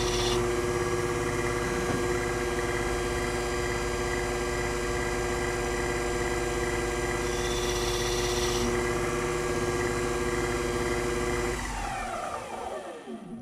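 Old CNC lathe running with a steady, many-toned motor whine, with a short hiss about seven and a half seconds in. About twelve seconds in, the drive is switched off and the whine falls in pitch as the spindle spins down.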